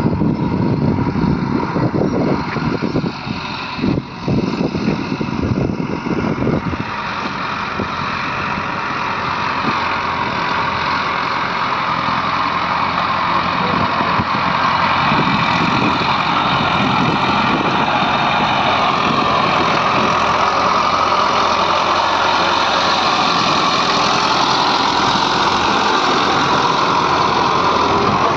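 Heavy diesel machinery engine running, with irregular knocks and clatter over the first several seconds, then a steady engine sound that grows gradually louder and holds.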